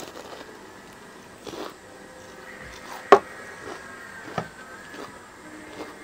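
Chewing a crispy deep-fried spring roll: scattered crunches and mouth clicks, the loudest a single sharp crunch about three seconds in and another about four and a half seconds in.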